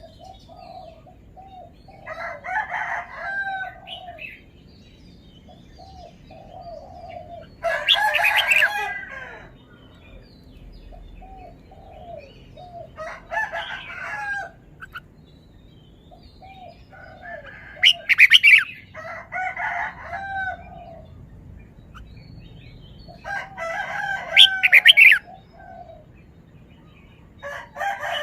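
Red-whiskered bulbul singing: short, quick phrases of warbling notes, about one every five seconds, with softer short chirps in between.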